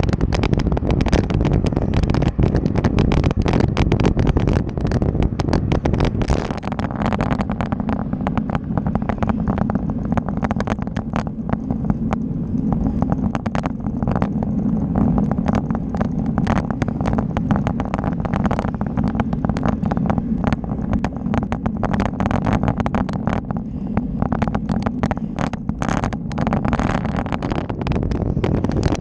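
Riding noise from a moving bike: a continuous rumble of wind and road noise, thick with small knocks and rattles, and a steady low hum that comes in about six seconds in and fades near the end.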